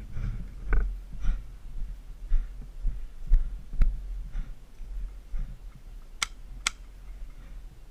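Low thumps and scuffs of an airsoft player moving with a body-worn camera. Sharp snaps of airsoft guns cut through them, the clearest two about six seconds in, half a second apart.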